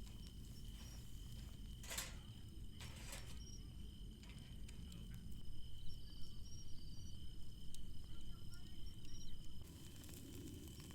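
Insects trilling steadily in a constant high thin tone, with short higher chirps over it and a couple of sharp knocks about two and three seconds in.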